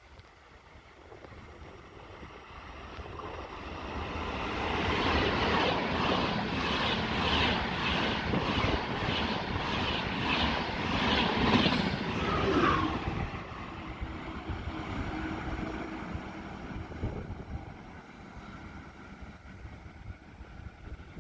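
A train passes through the station, building up, going by with regular clicks about twice a second, then fading away.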